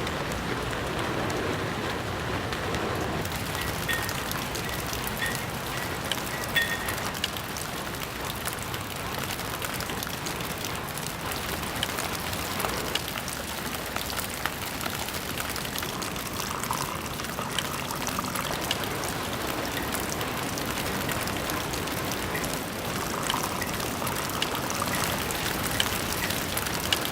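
Steady rain falling, with many separate drops ticking throughout.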